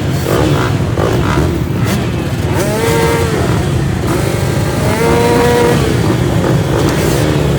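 Motocross bikes' engines revving on the track, over a steady rumble of other bikes. A clear rev rises and falls about three seconds in, and a longer one follows around five seconds in.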